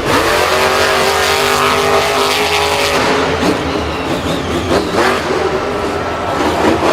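A vehicle engine revving, its pitch climbing slightly and then holding for about three seconds before breaking off into a rougher, noisier running sound.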